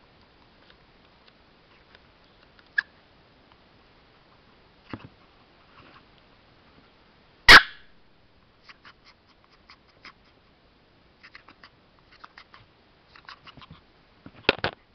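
Chihuahua gasping for breath: quick short rasping breaths that come in clusters, heavier near the end. One loud sharp noise comes about seven and a half seconds in.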